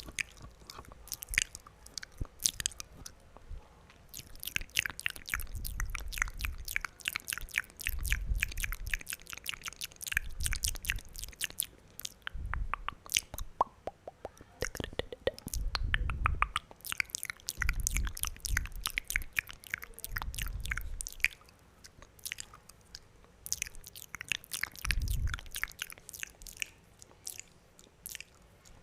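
Close-miked wet mouth sounds: rapid runs of lip and tongue clicks and pops, coming in clusters with short pauses between, and some low thumps.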